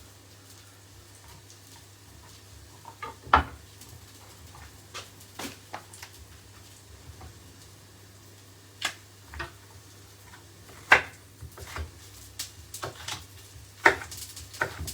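Irregular sharp knocks of a kitchen knife against a chopping board as a bell pepper is cleaned out and cut, over a faint steady low hum.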